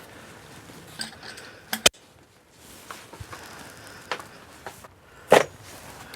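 Scattered sharp clicks and knocks of hand tools and small metal parts being handled during work on an engine, with two louder knocks, about two seconds in and about five seconds in.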